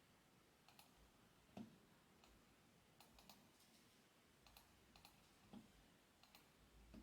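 Faint, scattered clicks and a few soft thumps, irregularly spaced, the loudest thump about a second and a half in.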